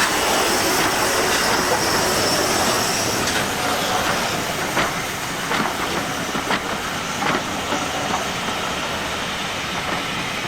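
Railway carriages rolling past, their wheels clicking over the rail joints at a steady beat of a little over one click a second, over a steady rushing hiss.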